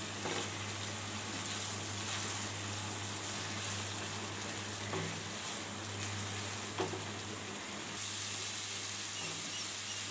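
Onion, garlic and ginger pastes with sliced onions sizzling steadily in hot oil in a non-stick pan as they are stirred with a silicone spatula, at the stage of frying the pastes until their raw smell is gone. A low steady hum runs underneath, with a few soft knocks.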